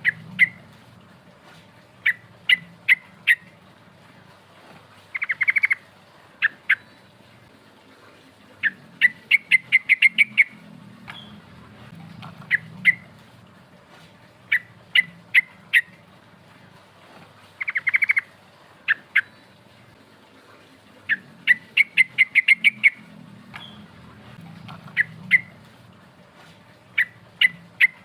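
Sooty-headed bulbul (trucukan) calling. Sharp, clear notes come in groups of three or four, alternating with fast rolling runs of about ten notes and a short dense trill, and the sequence repeats roughly every twelve seconds. A faint low hum runs underneath.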